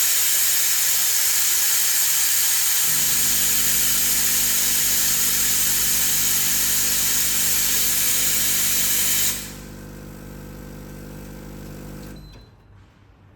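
The Bellezza Bellona dual-boiler espresso machine's steam wand blows a loud, steady hiss of steam from its boiler at full temperature, cutting off about nine seconds in. From about three seconds in, the machine's pump hums steadily as water runs through the brew group, stopping shortly before the end.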